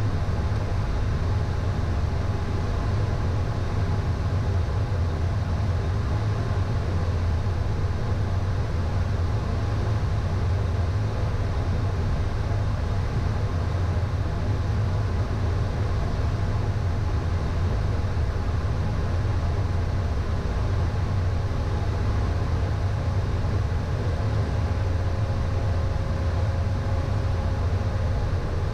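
Steady in-flight cockpit noise of a Premier I business jet: an even rumbling drone of airflow and engines, strongest in the low end, with a few faint steady tones above it.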